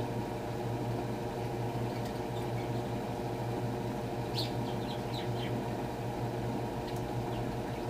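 Electrolux LTR10 washing machine running with a steady hum through its rinse-and-spin cycle. A few faint high chirps about halfway through.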